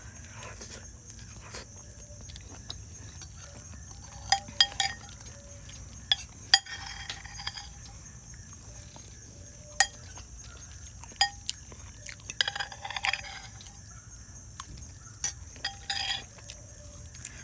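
Cutlery clinking and tapping against dishware while eating: scattered sharp clicks, some in quick pairs, a few seconds apart.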